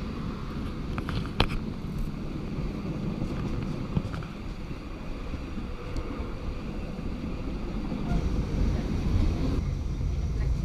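Steam-hauled passenger train running along the track, heard from an open carriage window: a steady rumble of the moving train mixed with wind buffeting the microphone, with a few sharp clicks. The rumble grows heavier about eight seconds in.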